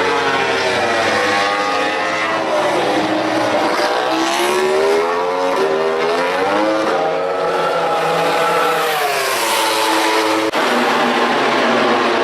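MotoGP prototype racing motorcycle engines at high revs on track, the pitch climbing and falling as the bikes accelerate, shift and brake. A sudden break about ten seconds in, after which another engine note falls away.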